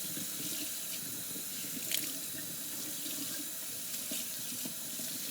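Water running steadily from a tap into a sink, with a short knock about two seconds in.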